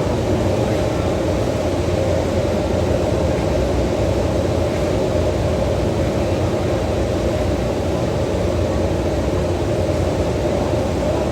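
Steady low rumble of a vehicle under way, unchanging throughout with a hiss on top.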